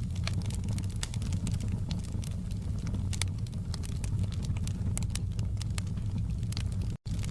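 Wood fire in a fireplace crackling, with frequent irregular sharp pops over a steady low rumble of burning. There is a split-second dropout near the end.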